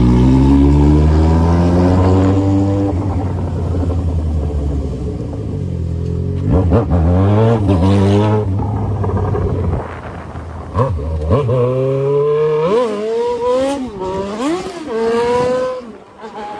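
Yamaha XJ6 inline-four motorcycle engine through a loud 3-inch aftermarket exhaust, accelerating hard. Its pitch climbs and falls several times as it pulls through the gears, with a quick run of rev rises and drops near the end.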